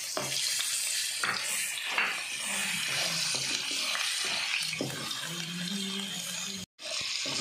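Minced garlic and ginger sizzling in hot oil in a metal wok, with a slotted spatula stirring and scraping now and then. The sound cuts out for a moment near the end.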